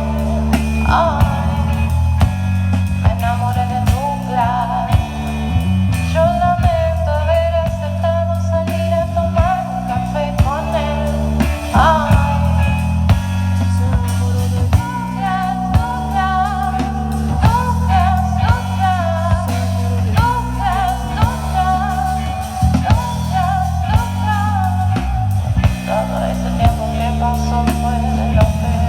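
A rock band playing live: held bass notes and a drum kit under a lead melody whose notes bend and slide.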